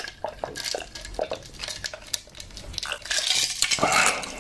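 Eating utensils clicking and scraping against dishes and bowls in a run of short knocks, busier and louder about three seconds in.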